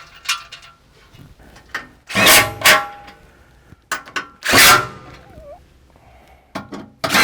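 A few loud, short bursts of metal clatter and scraping from the steel skid plate and its bolts being worked into place, with small clicks between them.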